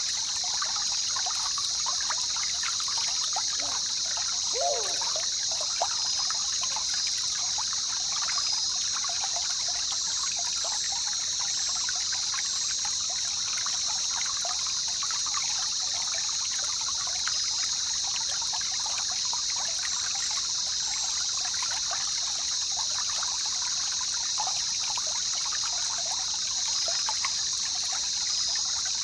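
Jungle river ambience: water trickling and babbling steadily, with a constant high-pitched drone over it.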